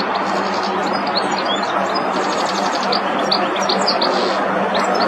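European goldfinch singing: a rapid, continuous twitter of short high notes and quick slurs. Under it runs a steady hiss-like background noise.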